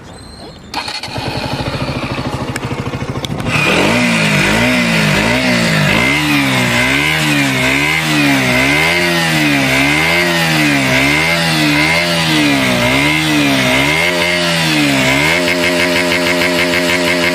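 KTM Duke 125's single-cylinder four-stroke engine coming to life and being revved through its exhaust: after a rough start about a second in, it is blipped up and down about once a second, then settles to a steady idle near the end.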